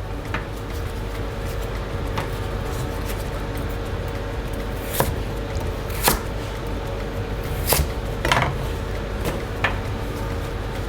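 Light knocks and clicks of raw sweet potato wedges being laid out on a baking tray, a handful of separate taps over a steady background hum.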